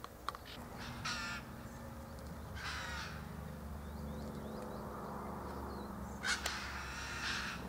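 Red wattlebird giving several short, harsh, raspy calls a few seconds apart.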